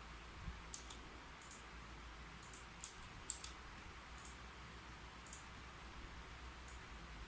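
Computer keyboard keys clicking in slow, irregular typing: about ten light, sharp clicks, some close together in pairs, over a faint steady room hiss.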